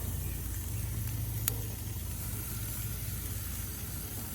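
Steady low rumbling noise with a faint hiss over it, and one sharp click about a second and a half in.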